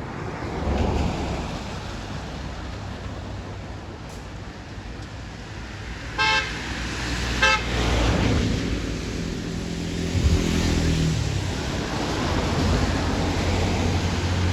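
Road traffic: a steady wash of vehicle noise with two short horn toots, about six and seven and a half seconds in, and an engine drone in the second half.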